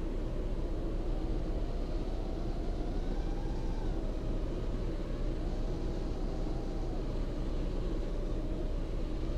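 Heavy wind buffeting under the whine of a five-inch FPV quadcopter's motors and propellers, whose pitch drifts up and down with the throttle.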